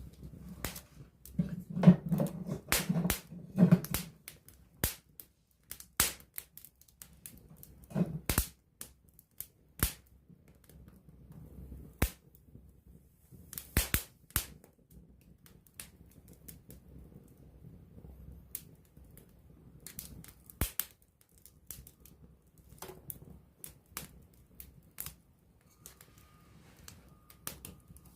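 Wood campfire crackling with irregular sharp pops, a cluster of louder pops about two to four seconds in and another near eight seconds, over a soft low rumble of the flames.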